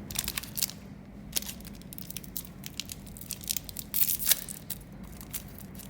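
Plastic snack wrapper crinkling and tearing open in quick, sharp crackles, with a louder cluster of rustles about four seconds in.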